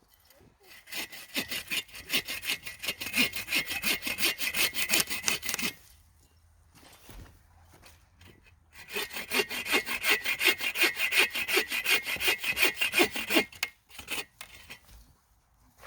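Hand saw cutting through a branch of dead wood in rapid back-and-forth strokes, in two long bouts with a pause of about three seconds between them.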